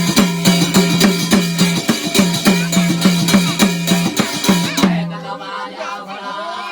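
Loud folk drumming: a deep drum struck in a steady beat of about three strokes a second, with sharp crisp strokes between, stopping abruptly about five seconds in. Quieter voices follow.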